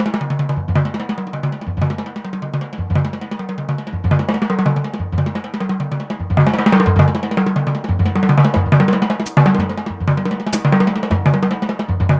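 Jazz drum kit played as a free-time solo with dry, short strokes: rolls and small figures moving around snare, toms and bass drum, with no steady pulse.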